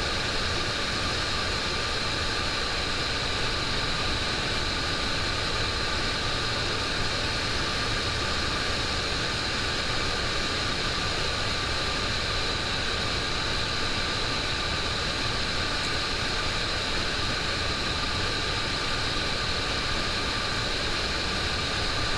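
Boeing 727 flight deck noise in flight: a steady rush of airflow and machinery with a thin, steady high whine over it.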